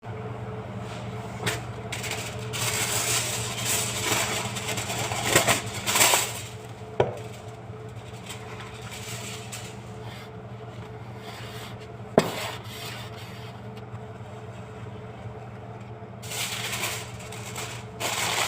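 Kitchen handling sounds: rubbing and scraping against a bowl or dish, with a few sharp knocks, over a steady low hum. The rubbing fades out around the middle and starts again near the end.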